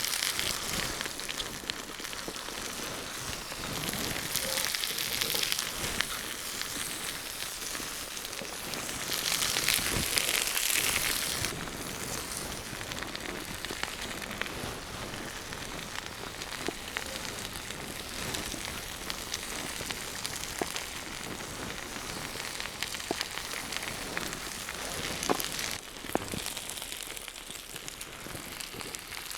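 Food sizzling over a campfire, with scattered sharp crackles and pops from the burning wood. The sizzle swells louder a few times, most strongly about a third of the way in.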